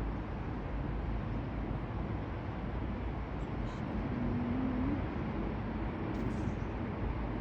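Steady outdoor background rumble and hiss, with a short low tone about four seconds in that rises slightly at its end.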